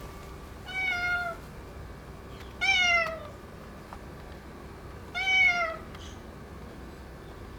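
Orange tabby tomcat meowing three times, a few seconds apart, each meow just under a second long and sliding down in pitch at the end.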